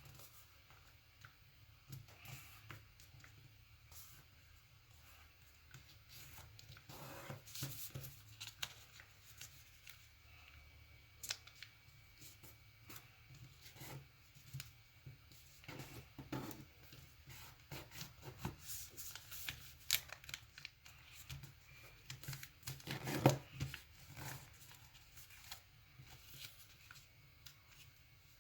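Paper being folded and creased by hand: scattered soft rustles, taps and quick swipes, with the loudest swipe about four-fifths of the way through.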